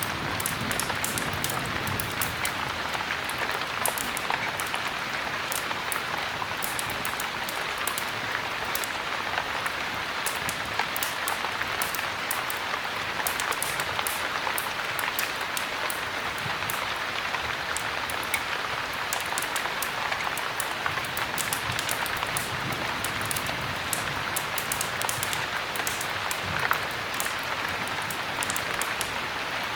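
Steady heavy rain, with a wood fire crackling in short sharp snaps throughout and one louder pop near the end.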